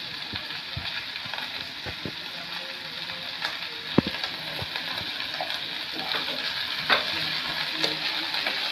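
Night-jasmine flowers frying in hot mustard oil in a karahi: a steady sizzle while a metal spoon stirs them. A few sharp clicks of the spoon against the pan stand out, the loudest about four seconds in and again near seven seconds.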